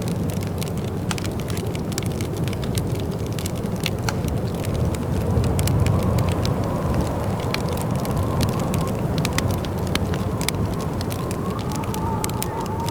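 Wood fire crackling in a fireplace: a steady scatter of small sharp pops and snaps over a continuous low rumble.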